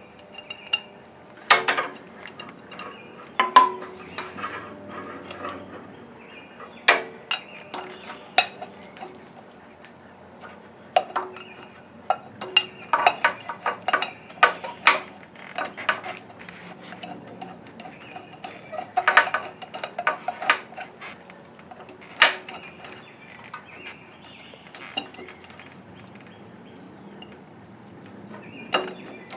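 Metal hand tools and engine parts clinking and clanking at irregular intervals, some strikes ringing briefly, as the cylinder head is bolted back onto an old Gravely walk-behind tractor's engine.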